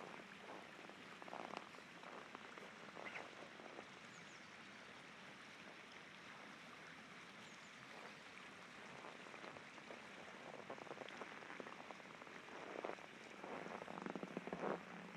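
Faint, steady rush of river rapids. Footsteps crunch on hard-frozen snow about a second in and again near the end.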